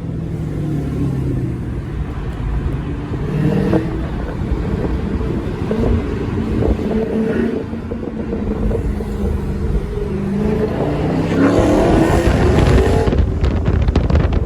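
Dodge 392 Hemi V8 with an aftermarket exhaust, pulling hard under acceleration, its pitch rising and dropping between gears. It makes a long rising climb in the last few seconds, loudest near the end, then cuts off suddenly.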